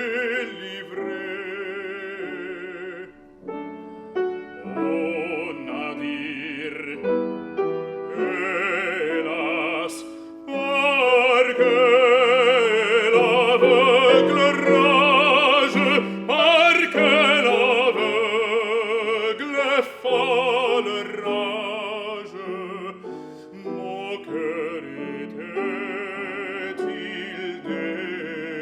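Operatic classical music: an accompaniment passage with held melody notes wavering in vibrato, swelling louder about ten seconds in.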